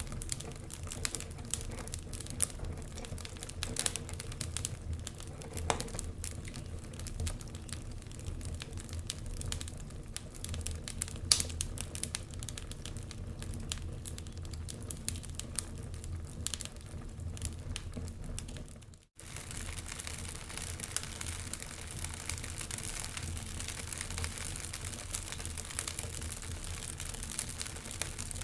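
Fireplace fire crackling, with many sharp irregular pops and snaps over a low steady rumble. The sound cuts out for a moment about two-thirds of the way through, then comes back with more hiss.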